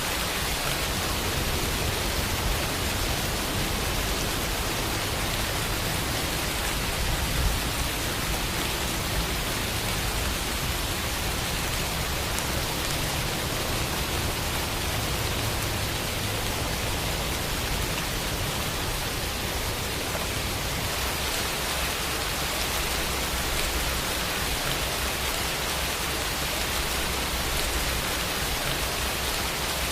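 Steady rainfall, an even rushing hiss of many drops with a few slightly louder drop hits.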